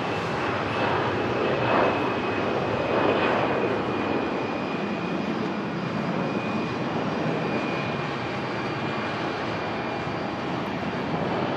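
Airbus A320-200 airliner's twin turbofan engines at takeoff power: a steady jet rush with a thin high whine, swelling a few times early on and then slowly fading.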